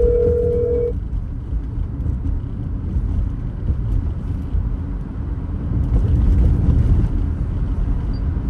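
A car drives along with steady road and engine rumble. A steady electronic beep sounds in the first second and stops about a second in.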